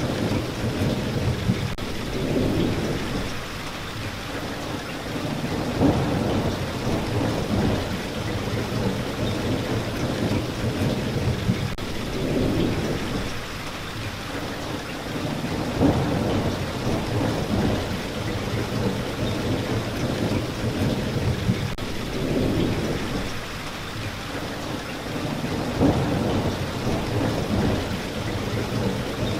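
Steady rain, with a low rumble that swells and fades every three to four seconds.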